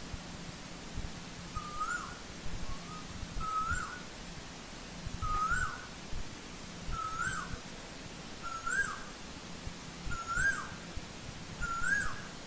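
Asian koel calling, a short rising call repeated seven times at an even pace, about one every second and a half.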